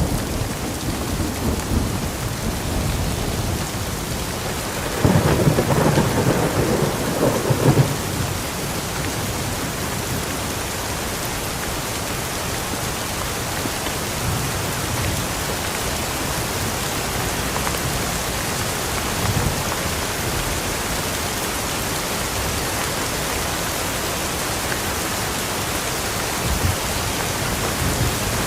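Steady rain falling, with a louder low rumble of thunder about five seconds in that lasts a few seconds.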